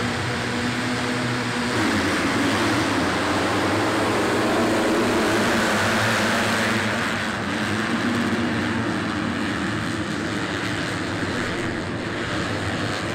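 Many motocross dirt bike engines running together at high revs, a loud dense wall of overlapping engine notes that starts suddenly and holds steady.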